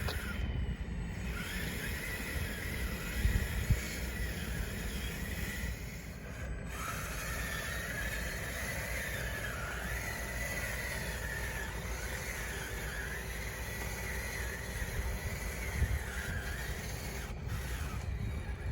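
Small electric drive motors and gearboxes of a radio-controlled bulldozer whining, the pitch wavering up and down as they work, with brief pauses, over a low rumble.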